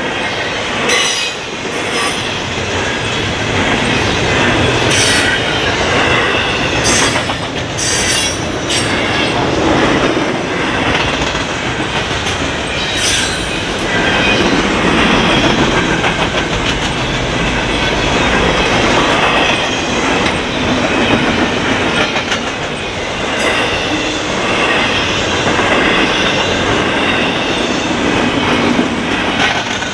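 Double-stack intermodal freight cars rolling past steadily, a continuous rumble and clatter of steel wheels on rail, with short high wheel squeals several times in the first half.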